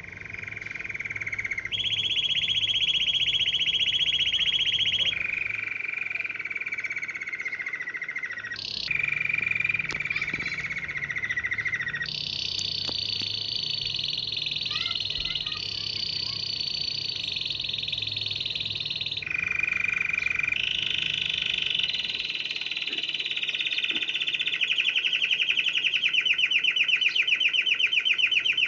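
Domestic canary singing a continuous string of rapid trills, one after another. Each trill holds at one pitch for one to four seconds before switching abruptly to the next, some sinking slightly in pitch. Near the end the song moves into a trill with more distinctly separated notes.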